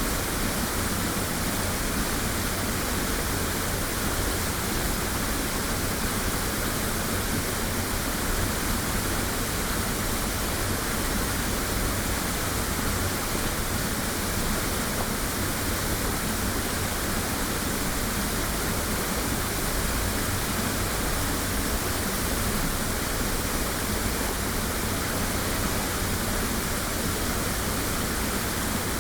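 Waterfall crashing steadily, a constant even rush of falling water recorded binaurally.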